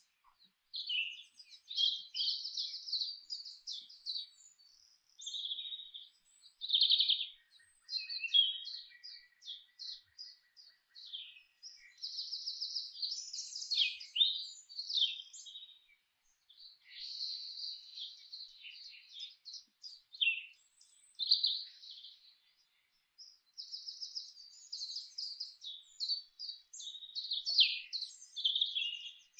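A songbird singing: rapid trills and quick chirps, high in pitch, in phrases of a few seconds with short breaks between them.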